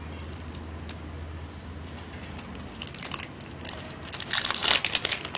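Crinkling and tearing of an L.O.L. Surprise ball's wrapping as a layer is opened by hand: scattered crackles that become a dense run of crackling about four seconds in.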